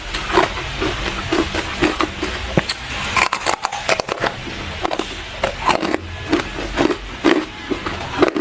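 Close-miked chewing of hard ice: many irregular sharp crunches and cracks, with softer chewing thuds in between.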